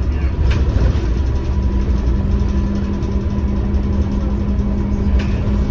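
Scania K230UB bus's five-cylinder diesel engine running, a steady low rumble. A steady hum joins in about one and a half seconds in, and there are two short clicks, one near the start and one near the end.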